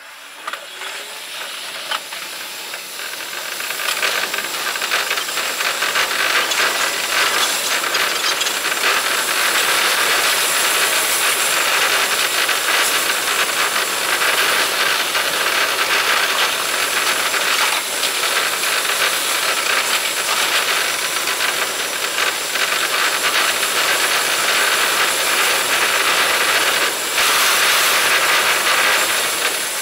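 Running sound of a Seibu Shinjuku Line electric train heard from the cab, played back at five times speed, so wheel-on-rail noise and motor whine become a dense, hissing rattle of rapid clicks. It grows louder over the first few seconds as the train pulls away from a station, then holds steady.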